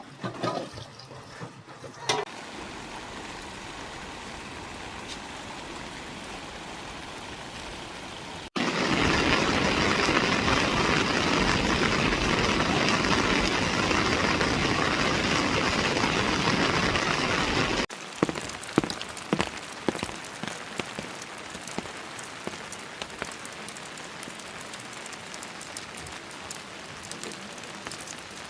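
Steady rain falling, in three edited shots. From about 9 to 18 seconds it is much louder and heavier, a dense downpour. The last shot has scattered drip taps over the rain.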